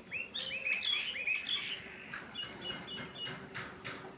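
Birds chirping: a quick run of curved chirps in the first second and a half, then shorter, thinner high peeps.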